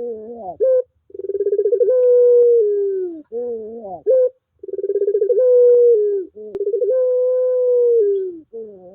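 Puter pelung dove cooing: two long drawn-out calls. Each opens with a quick stuttering run of notes, holds one long note that drops in pitch at its end, and finishes with a few short wavering notes that rise.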